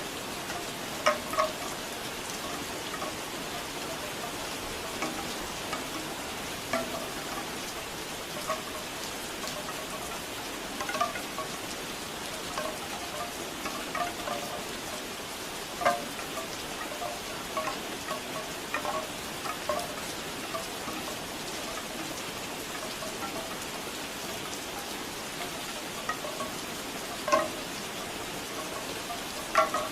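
Steady rain falling, with bamboo wind chimes knocking together at irregular moments, hollow wooden clonks, a few of them louder.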